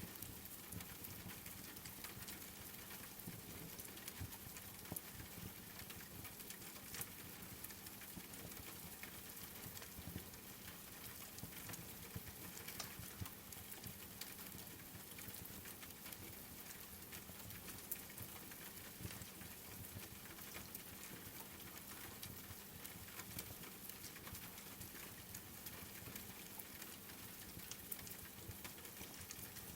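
Rain falling steadily, a soft even hiss with many scattered small ticks and pops.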